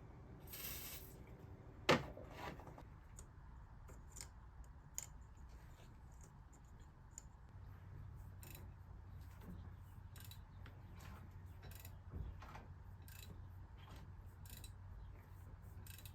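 Scattered light clicks and metallic knocks of hand tools and engine parts being handled, with a brief hiss about half a second in and a sharper click about two seconds in. A faint low hum joins partway through.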